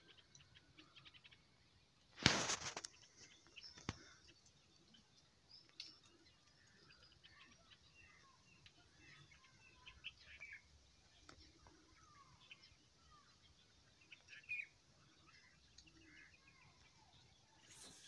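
Several small birds chirping and calling among tree branches, in short scattered notes with a louder call near the end. A short, loud burst of noise cuts in about two seconds in.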